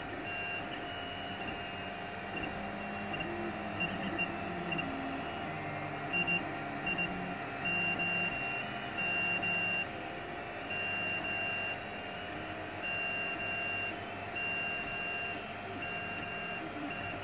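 3D printer running a continuous vase-mode print: a steady fan hum under stepper motors whining in short tones that change pitch and break off every second or so as the nozzle runs round the wing outline without retracting.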